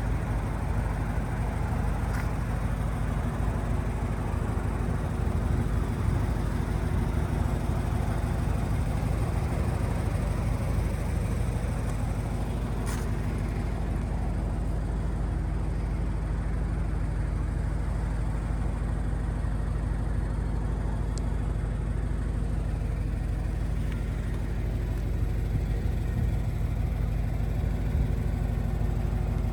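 Turbocharged Scion FR-S's flat-four boxer engine idling steadily.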